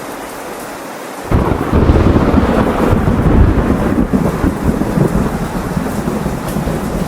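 Steady rain falling, then about a second in a sudden loud clap of thunder breaks into a heavy rolling rumble that slowly eases while the rain continues.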